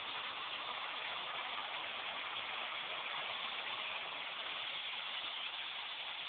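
Hoover WindTunnel Air bagless upright vacuum cleaner running steadily, its motor and airflow making an even, unbroken hiss.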